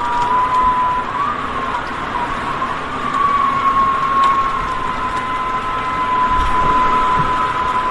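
Strong wind rushing, with a high whistling tone held at nearly one pitch and wavering slightly throughout.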